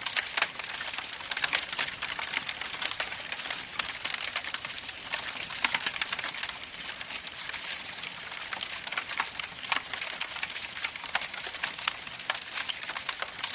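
Campfire crackling: a steady hiss thick with irregular pops and snaps.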